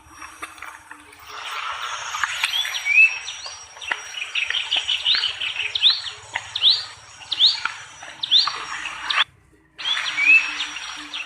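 Birds chirping and calling in a dense chorus, with a short rising whistle repeated roughly every second. The sound cuts out completely for about half a second near the end, then the same chorus resumes.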